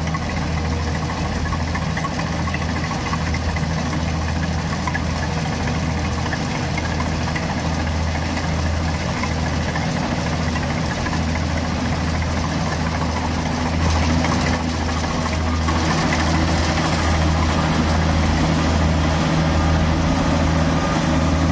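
Combine harvester running steadily with a low engine hum and mechanical clatter, getting a little louder about two thirds of the way through.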